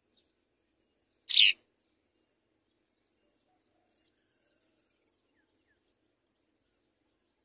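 A house sparrow gives a single short, high chirp about a second in.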